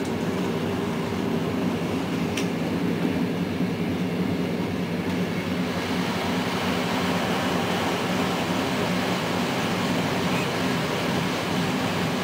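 Passenger train running steadily along the track, a continuous rumble of wheels and running gear with a steady hum underneath. A brief high squeak comes about two seconds in.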